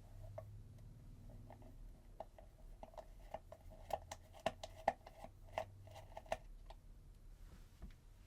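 A run of light clicks and taps from small parts being handled on the bench, thickest through the middle few seconds, over a steady low hum.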